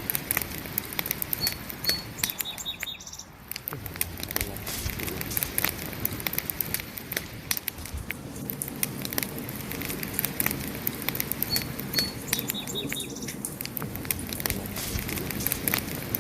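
Wood fire crackling and popping in irregular sharp clicks, with a couple of short high chirps twice.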